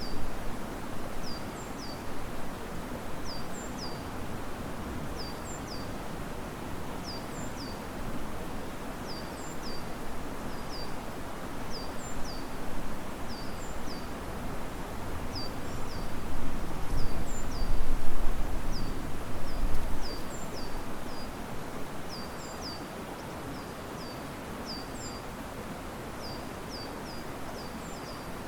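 Steady rush of river water with wind moving through the trees, a gust swelling louder for a few seconds past the middle. A bird repeats short, high, downward-sweeping calls, often in pairs, every second or two.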